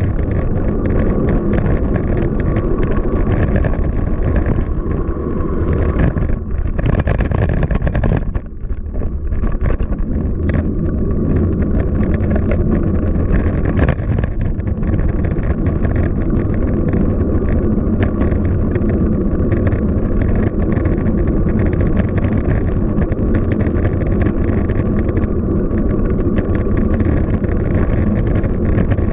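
Wind rushing over the microphone of a moving bicycle, over a steady rumble of city traffic. It drops briefly about eight seconds in.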